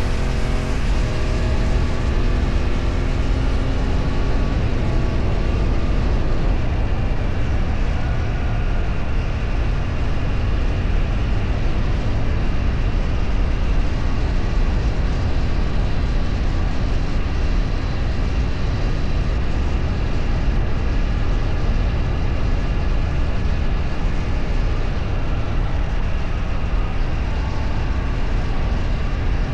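Motor vehicle on the move: a steady loud rumble of wind and road noise over an engine whose pitch rises and falls, most clearly in the first few seconds.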